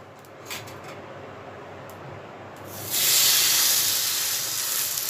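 A rava-coated bread slice laid on a hot pan, sizzling. After a faint tap, a sudden loud sizzle starts about three seconds in and carries on, easing slightly.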